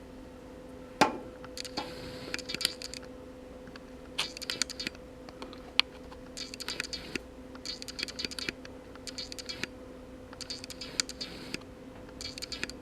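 Short bursts of faint clicking and scratching about once a second, with a sharper knock about a second in, over a steady low hum.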